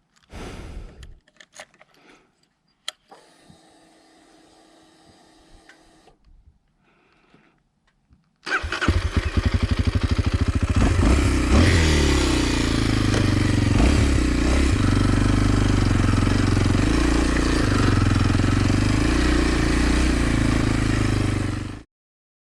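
Kawasaki KLX230's single-cylinder four-stroke engine cranking and catching about eight and a half seconds in, then running at idle with a slight rise and fall before stopping abruptly near the end. Before the start there are a few clicks and a faint steady hum lasting about three seconds.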